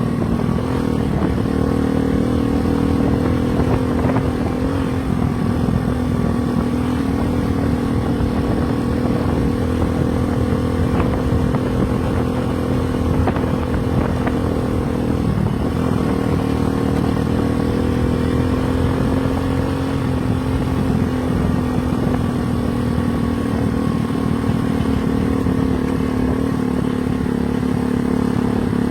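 Motorcycle engine running steadily at cruising speed, its pitch dipping briefly about halfway through before settling back.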